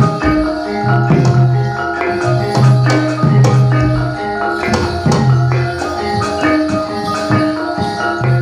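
Javanese gamelan accompaniment for a jathilan dance: struck metal keys ringing held notes over quick drum and percussion strokes, with a low note that keeps coming back.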